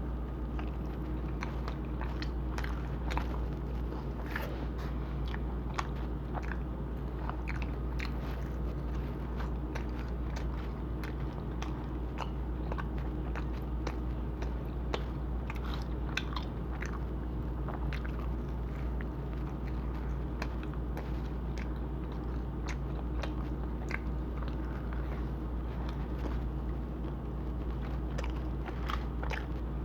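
A person biting and chewing Domino's pizza close to the microphone, with many small sharp crunches scattered throughout, over a steady low hum.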